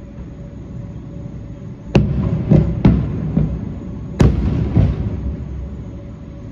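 Fireworks going off: about six sharp bangs from about two seconds in, spread over some three seconds, with a low rumble rolling on between them.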